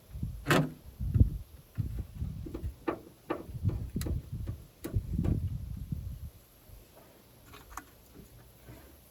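Irregular clicks and knocks with dull thumps, several a second for about six seconds, then only a few faint ticks.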